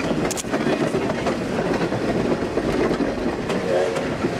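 Skunk Train passenger coaches rolling along the track: a steady running rumble with wheels clicking over the rails.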